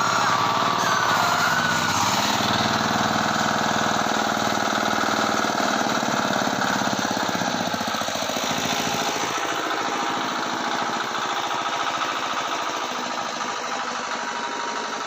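A small engine running steadily, easing off slightly over the seconds.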